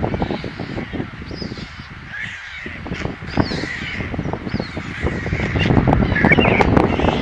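Birds calling with short, harsh, caw-like calls over a dense, rapid low clicking and crackling, growing louder about five seconds in.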